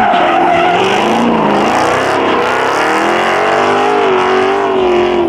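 Car engine held at high revs, its pitch wavering up and down, over a loud hiss of spinning tires, as in a burnout.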